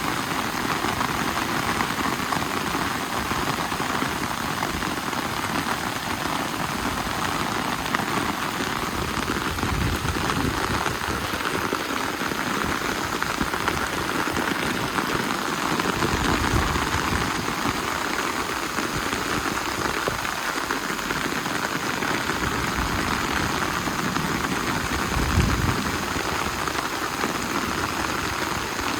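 Steady rain falling and pattering on surfaces, with a few brief low rumbles along the way.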